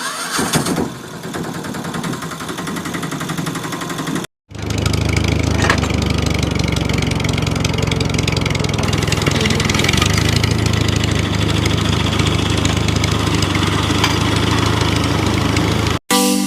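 Small motor of a DIY mini tractor model running steadily. It is heard in two stretches split by an abrupt cut about four seconds in, and the second stretch is louder with a strong low hum.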